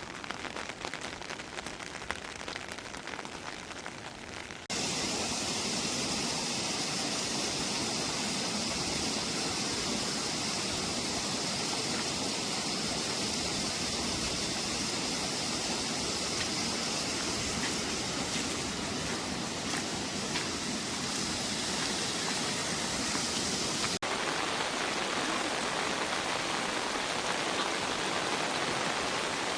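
Heavy rain falling, a steady hiss. It grows abruptly louder about five seconds in and changes again abruptly about five seconds before the end.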